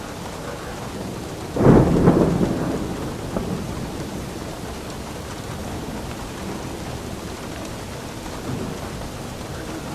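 Steady rain falling, with a sharp clap of thunder about one and a half seconds in that rumbles away over the next couple of seconds; a fainter rumble comes near the end.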